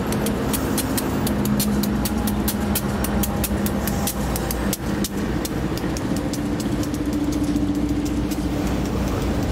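A train rolling past: a steady rumble and hum with a quick, uneven run of sharp clicks.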